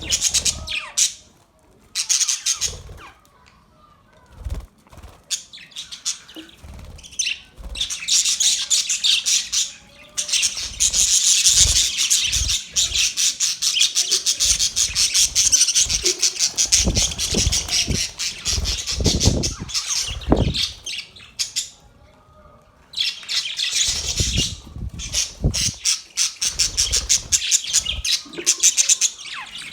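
Budgerigars chattering and warbling in fast, clicky runs, heaviest in a long unbroken stretch through the middle and again near the end, with short lulls between. Dull low thumps turn up among the chatter.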